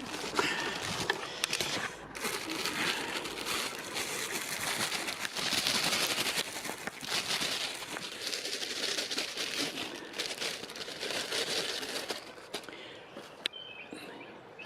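Crinkling and crackling as bread is handled, broken up and put out on a bird table: a dense run of small rustles and crackles that eases off near the end.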